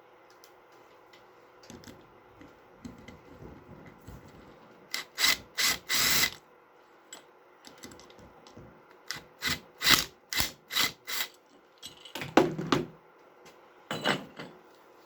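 Metal parts of an old 1-inch pneumatic impact driver clanking and knocking as it is taken apart by hand to remove its handle. Light scattered clicks come first, then groups of sharp metallic knocks, including about five in quick succession near the middle.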